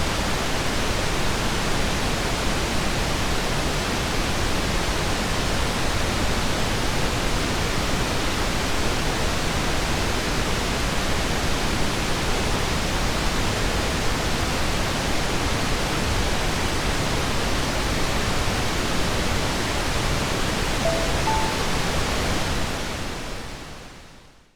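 Steady pink noise, a hiss weighted toward the low end, at an even level. Near the end, two brief soft tones, the second higher, sound as the timer's gentle alarm; then the noise fades out over about two seconds.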